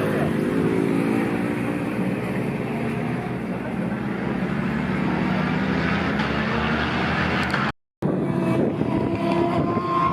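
Racing motorcycle engines running at high revs as the bikes circle the track, a steady dense engine drone. The sound cuts out for a moment about three quarters of the way in, then resumes.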